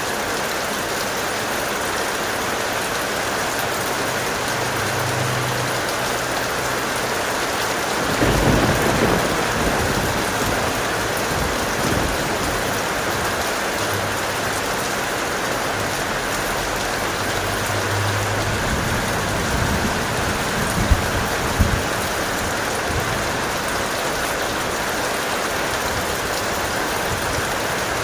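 Heavy rain falling steadily, with a rumble of thunder rolling in about eight seconds in and grumbling on, with two sharper cracks a little after the middle.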